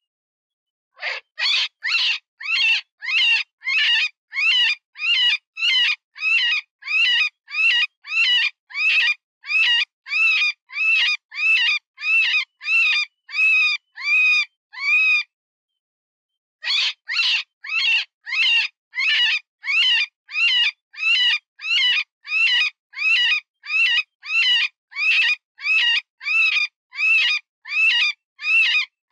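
Cottontail rabbit distress call, the wounded-rabbit squeal used to lure predators: a string of high, wavering squeals at about two a second, each rising then falling in pitch. They break off for about a second and a half around the middle, then start again.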